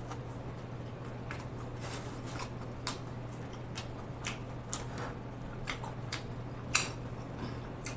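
A person chewing a mouthful of crunchy hard-shell taco with the mouth closed: short, irregular wet clicks and smacks, about one or two a second.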